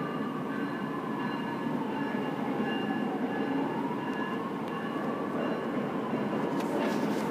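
Electric passenger train rolling steadily past, a continuous rumble with a faint whine that slowly wavers up and down in pitch.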